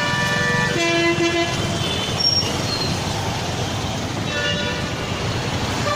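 Vehicle horns honking in road traffic over steady traffic noise: two different horns overlap in the first second and a half, and shorter honks come later.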